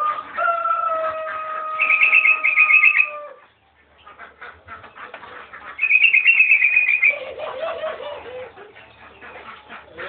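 Sooty-headed bulbul (kutilang) singing: two short, fast, bubbly trilled phrases about two and six seconds in. A long steady-pitched call from another bird runs under the first three seconds.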